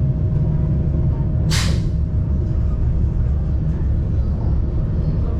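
Steady low rumble of the Montserrat rack railway train running, with a faint steady tone under it, and a short hiss of air about a second and a half in.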